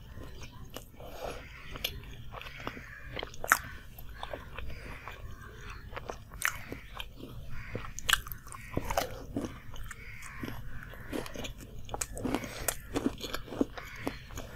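A person chewing and biting into a fried samosa, the crisp pastry crunching with sharp, irregular crackly clicks; the loudest crunch comes about three and a half seconds in.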